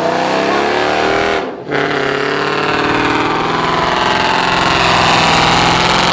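Car engine revving loudly, climbing in pitch, then cutting off briefly about a second and a half in before coming back and holding at high revs.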